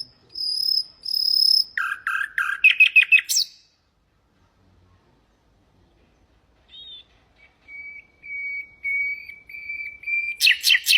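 Common nightingale singing. A phrase of repeated high whistled notes runs into a fast stuttering trill. After a pause of about three seconds comes a series of clear, evenly repeated notes that breaks into a rapid rattling trill near the end.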